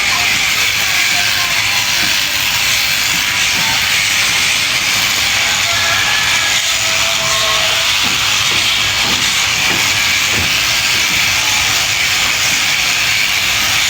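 Sheep-shearing clippers running steadily through fleece: a constant loud hiss.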